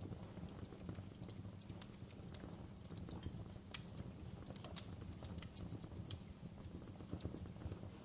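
Wood fire crackling in a fireplace: irregular sharp pops and snaps over a low steady rumble, the loudest pop nearly four seconds in.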